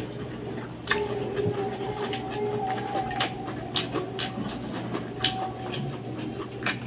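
A person chewing rice and fish, with wet mouth smacks and sharp clicks: a strong one about a second in and several more spaced through.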